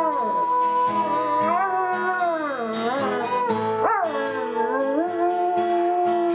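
A dog howling along with music: long drawn-out howls that slide up and down in pitch, over a backing track with a steady beat.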